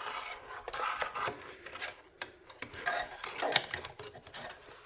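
Continuous rubbing and scraping with scattered small clicks, as of hands working wires and small parts into place.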